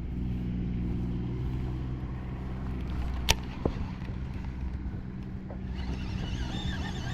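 A steady low engine hum, like a motor vehicle running, with one sharp click a little over three seconds in.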